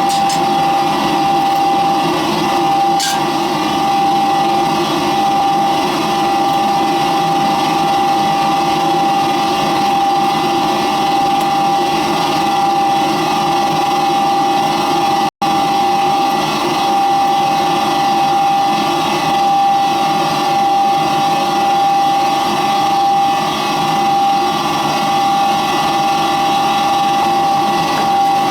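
York 90+ gas furnace running after being fired up: a loud, steady high-pitched whine over a steady rushing noise, a 'screamer' of a furnace. The sound cuts out for an instant about halfway.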